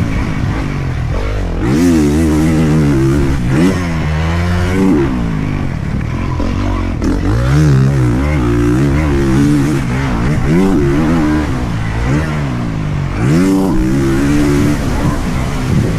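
Honda motocross dirt bike engine being ridden hard. The engine note climbs in pitch as it accelerates, then drops off the throttle, over and over, about five times.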